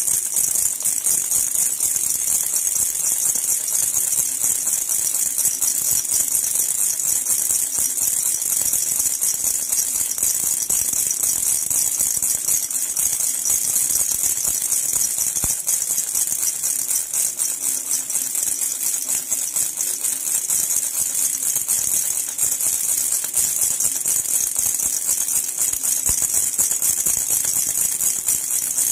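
Jhunjhuna baby rattle shaken continuously, a steady, fast, bright jingling without pauses.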